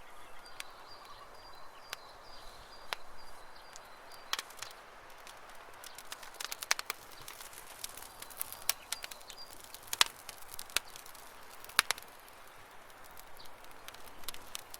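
Campfire crackling: irregular sharp pops and snaps, with two louder pops near the middle, over a soft hiss. A bird trills in a thin, high, broken note during the first few seconds and again briefly later.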